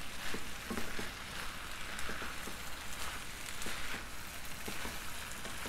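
Rice and vegetables sizzling gently in a frying pan as a wooden spatula stirs through them, with faint scrapes and light knocks of the spatula every second or so.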